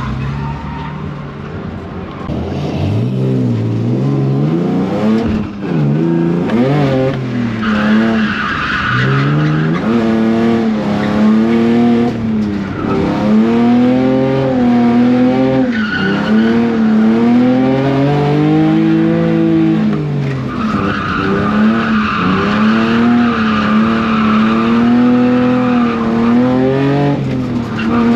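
E46 BMW drift car's engine revving up and falling back again and again as it is driven hard. The tyres squeal in long stretches as the car slides.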